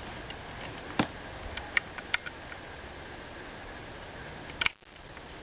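A handful of sharp mechanical clicks from the Taipan Mutant .22 PCP air rifle being handled and readied between shots, the loudest about a second in and another near the end, over a steady background hiss.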